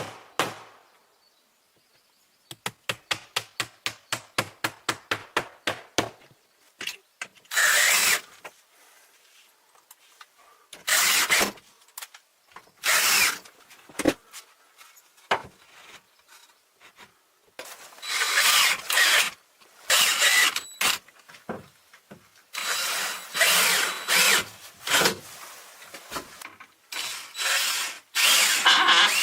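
Quick hammer blows on wood, about four a second, followed by a power tool run in repeated bursts of one to three seconds as it works into wood.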